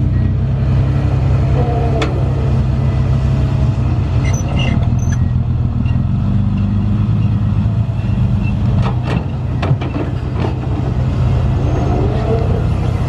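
Heavy diesel engine of a construction machine running steadily at a low, even note that shifts slightly about halfway through, with a few sharp knocks near the end.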